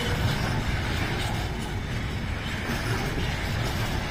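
Container freight wagons rolling past on the rails: a steady low rumble of wheels and running gear.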